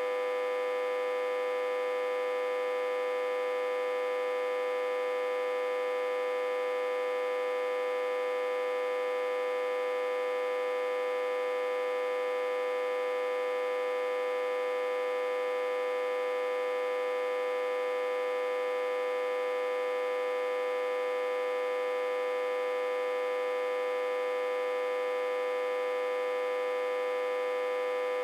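Autotransformer humming, reverse-connected to a step-down transformer and fed about 60–80 V. It makes a steady hum with one strong mid-pitched tone and many fainter higher overtones.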